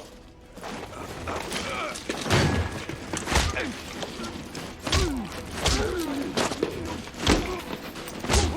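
Heavy metal thuds, about seven at uneven intervals of roughly a second, with creaking and groaning of metal between them: a locked railway freight wagon's door being forced.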